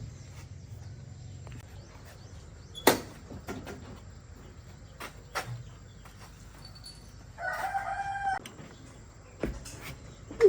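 A rooster crows once, for about a second, near the end. Earlier there is a single loud, sharp knock, the loudest sound, and a few fainter knocks.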